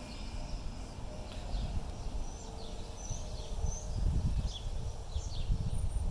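Outdoor ambience: birds chirping on and off, short high calls, over a low rumble that grows stronger from about four seconds in.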